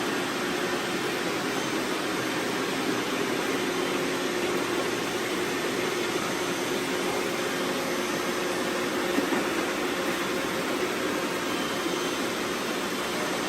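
Robot vacuum running: a steady whir of its suction fan and brushes, with a low hum underneath.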